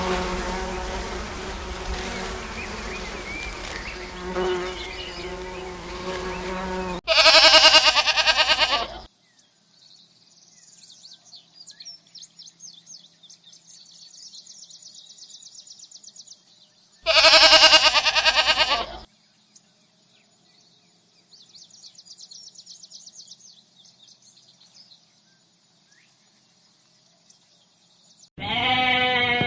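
A flying insect's steady buzz for about seven seconds. After a sudden cut, loud wavering bleats follow, about ten seconds apart: two calls of about two seconds each, and a third starting near the end. Faint high chirping and ticking fill the gaps.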